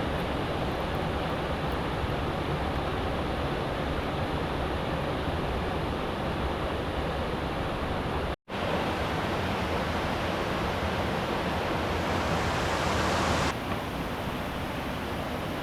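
Steady rush of flowing river water. It cuts out for an instant a little past halfway, and its tone changes abruptly about two seconds before the end.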